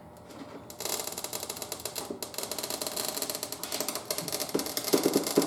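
Motorcycle tyre bead creaking and chattering against the rim and a plastic tyre tool as the bead is levered off, a fast stuttering creak that starts about a second in, with a few heavier knocks near the end. It sounds terrible, which the owner puts down to the plastic tool sliding on the bead.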